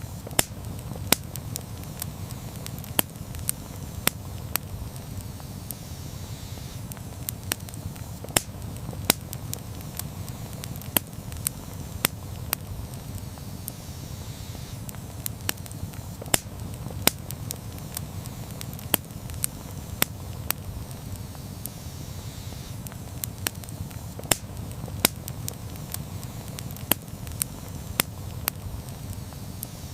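Campfire burning, a steady low rumble of flames under irregular crackles and sharp pops from the burning wood, several a second.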